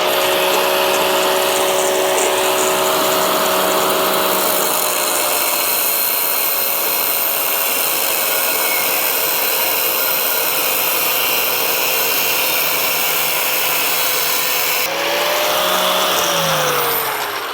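Angle grinder with a thin cut-off disc cutting through steel sheet, running at full speed with a loud steady whine over a harsh hiss. The pitch sags a little under load. Near the end it lets off and the whine falls away as the disc spins down.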